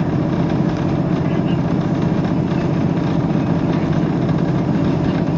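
Steady, loud low rumble of a diesel train's engine and running gear, heard from inside the carriage.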